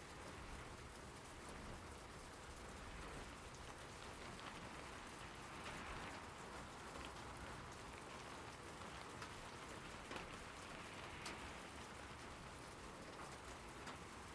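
Steady rain falling: an even hiss with scattered drops tapping on a surface.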